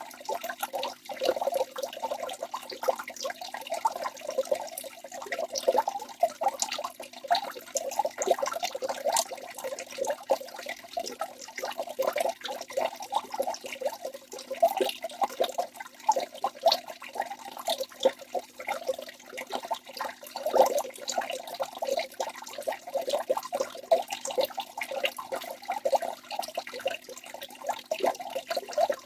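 A waterfall's water pouring and splashing without a break, a busy, uneven churn of many small splashes.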